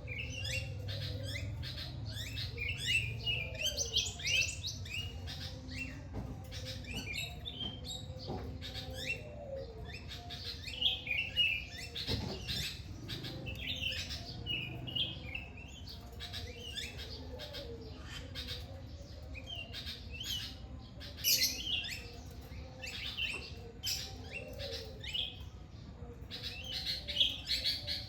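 Many small birds chirping and twittering at once in a busy morning chorus, with short overlapping calls.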